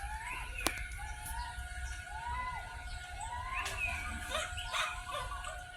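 Birds calling: a short whistled note that rises and falls, repeated about once a second, with a few higher chirps mixed in.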